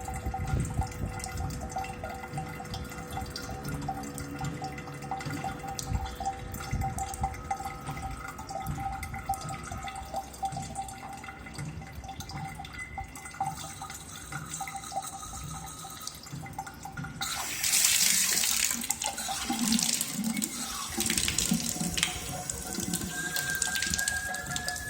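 A faucet running with a steady high-pitched whine over the sound of trickling water. Past the middle the water rushes louder, and near the end a higher whistle comes in and rises slightly. The uploader thinks the noise may come from an aged, hardened rubber washer or a faulty ceramic valve inside the faucet.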